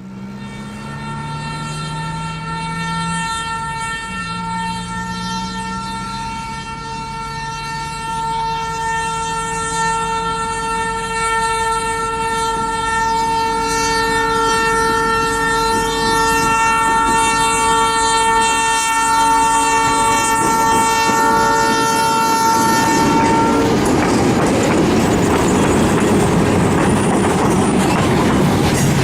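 Loaded freight train with EMD GR12W and ALCo RSD35 diesel locomotives approaching, its horn held in one long steady chord for over twenty seconds as the train grows louder. The horn stops about three-quarters of the way through, and the noise of the locomotives and loaded wagons rolling over the broad-gauge rails at the level crossing takes over.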